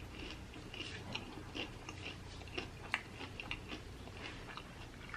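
Close-miked biting and chewing of a fried chicken wing: a string of small, irregular crunches and clicks.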